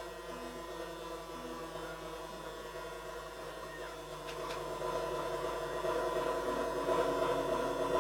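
Experimental electronic noise music from synthesizers: a dense droning chord of steady tones with a short low blip repeating about once a second. A high tone glides down a little before the middle, and the drone swells louder in the second half.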